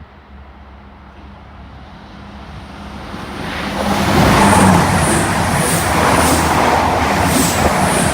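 Diesel passenger train passing through at speed: a low engine hum, then the noise builds over a couple of seconds into a loud rush of wheels on rail, with a run of sharp high ticks as the wheels go by.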